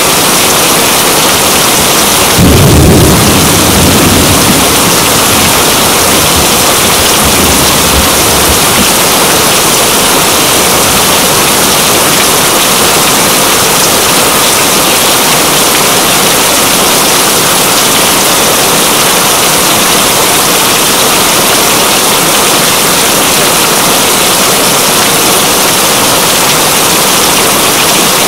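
Steady rain, with a low roll of thunder about two and a half seconds in that fades away over several seconds.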